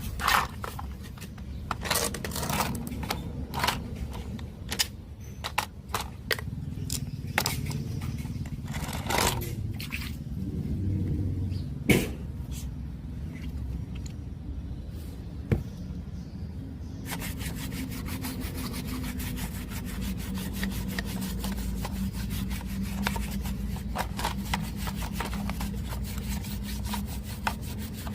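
Clicks and knocks of small parts and tools being handled, over a low hum. From about 17 seconds in, a steady scratchy rubbing takes over.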